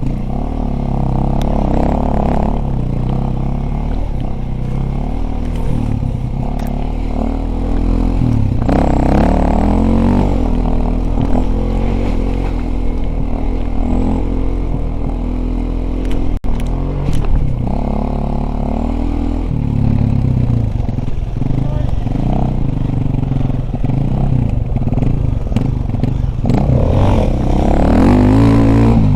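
Dirt bike engine running, its pitch rising and falling repeatedly as the throttle opens and closes, over a heavy low rumble.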